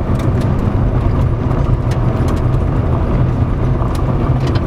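Car driving, heard from inside the cabin: steady low road and engine rumble, with a few faint ticks.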